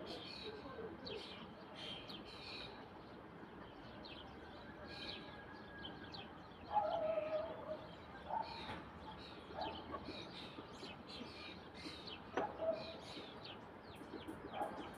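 Chickens clucking, loudest about seven seconds in and again in shorter calls later, with small birds chirping throughout.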